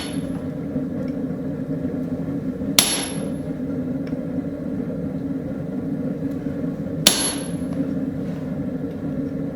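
Hammer blows stamping dots into a hot steel railroad spike: two sharp metallic strikes with a short ring, about four seconds apart. A steady low hum runs under them.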